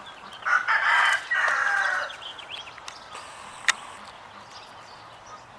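A rooster crowing once, in three joined parts with the last note held longest. A short sharp click follows a couple of seconds later.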